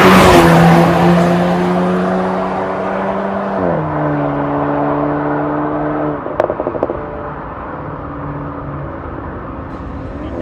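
Škoda Octavia RS's turbocharged 2.0 TSI four-cylinder (EA888 evo4) through an MS-R valved cat-back exhaust, loud at first and then fading. Its note holds a steady pitch, steps down about four seconds in, and gives a quick string of sharp exhaust pops about six and a half seconds in.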